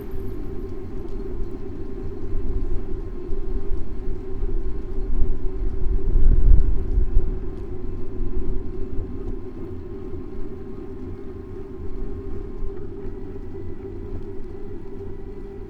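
Muffled low rumble of wind and street traffic on a bicycle-mounted camera's microphone while riding, swelling loudest about six seconds in.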